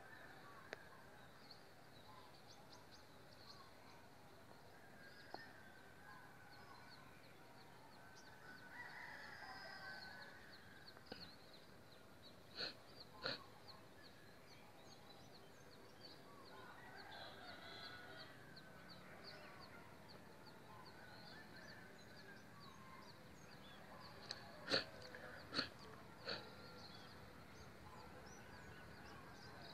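Quiet morning outdoor ambience of scattered bird calls and chirps over a faint steady hiss, with a faint low hum in the second half. A few sharp clicks, the loudest sounds, come twice about halfway and three times near the end.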